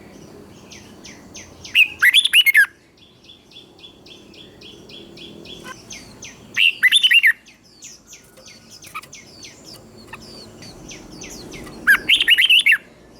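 Red-whiskered bulbul singing: three short, loud, warbling phrases about five seconds apart, with fainter quick series of chirps in between.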